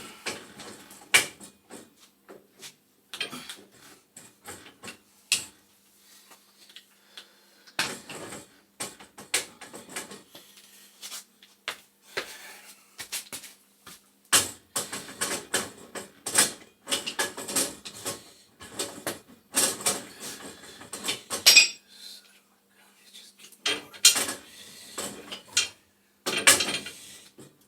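Irregular metallic clinks, knocks and scrapes of a threaded gas pipe and fittings being worked into place with a wrench, the pipe catching on something underneath as it is swung.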